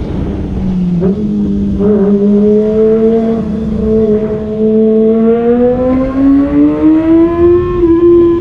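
Kawasaki ZX-25R's 250 cc inline-four engine running while riding. The note dips briefly about a second in, holds steady, then climbs in pitch from a little past halfway as the bike accelerates.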